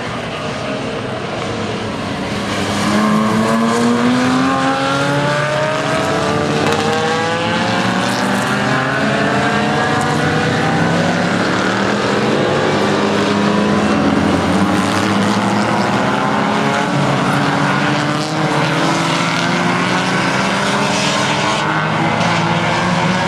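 Several racing sports car engines at full throttle together, each pitch climbing and dropping back again and again as the cars accelerate and change gear, getting louder about two seconds in.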